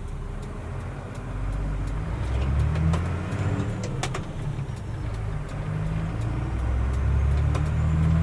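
Mercedes-Benz Unimog U500's six-cylinder turbo diesel engine running low and steady while driving, heard from inside the cab. It swells about two seconds in and again near the end, with a single sharp click about four seconds in.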